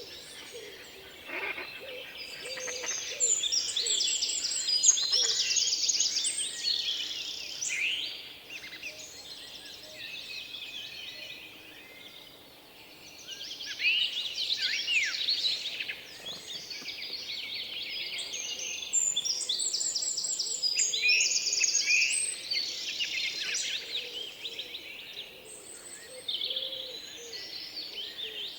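Many birds chirping and twittering at once: quick, high overlapping calls and trills that swell into busy bouts and ease off in between.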